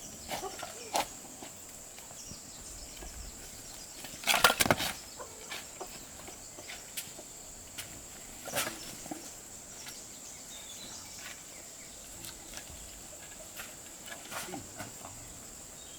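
A steady high insect-like chirring, with scattered knocks and taps and one loud cluster of knocks about four seconds in.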